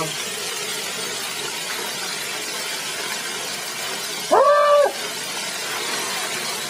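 Steady rush of a small waterfall, with a man's short cry about four seconds in.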